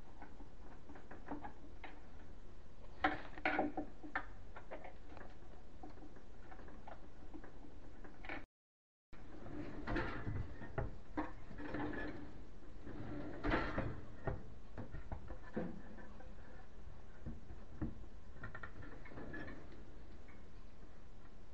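Intermittent clicks, knocks and scraping rattles of a metal kitchen pull-out basket and its drawer runners being handled and fitted. The sound cuts out completely for about half a second around eight and a half seconds in.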